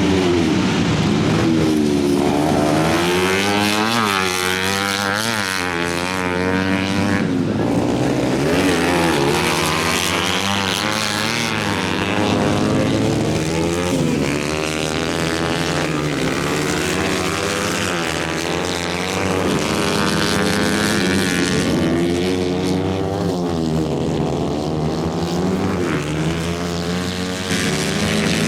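A 125 cc engine running steadily, its pitch wavering up and down over the whole stretch.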